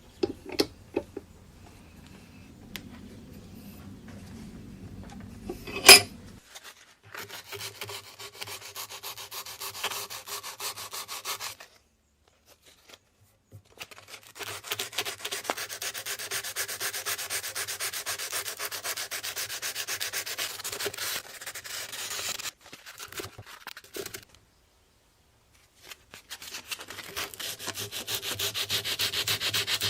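Rust being sanded off a steel knife blade by hand, in rapid back-and-forth rubbing strokes, in three long stretches broken by abrupt silences. A few sharp knocks come in the first second and a loud click about six seconds in.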